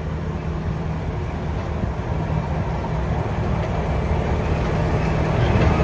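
Diesel locomotive running close by: a steady low engine drone over a rumbling noise, growing a little louder near the end.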